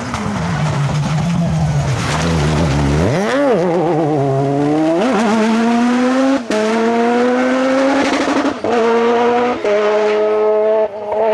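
Off-road rally car's engine revving unevenly, then pulling hard and rising in pitch through several upshifts, each marked by a brief break in the sound.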